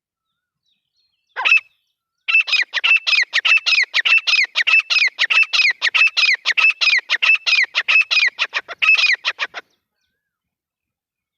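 Grey francolin calling: one short note, then a fast run of loud, repeated notes, about five a second, lasting some seven seconds before it stops.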